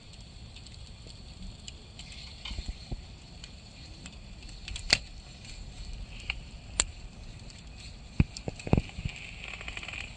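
Wood fire burning with a steady low rumble and hiss, and scattered sharp crackles and pops, the loudest about five, seven and eight seconds in.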